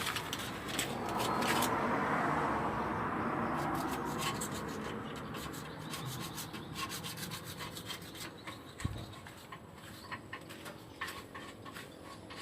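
Rubbing, scraping noise, loudest for the first few seconds and then fading, with scattered light clicks and a single knock about nine seconds in.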